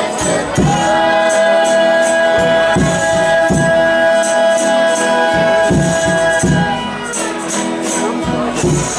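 Folia de Reis music: several voices hold one long sung note for about six seconds, over a steady drum beat with tambourine jingles, then the band plays on.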